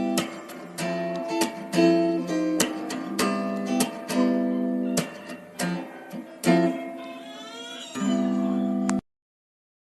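Background music of strummed acoustic guitar chords that cuts off suddenly about nine seconds in, leaving silence.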